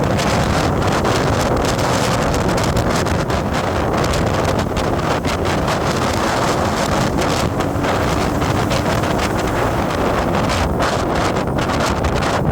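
Wind buffeting the microphone while riding along a road, over the steady running noise of the vehicle, with constant fluttering gusts.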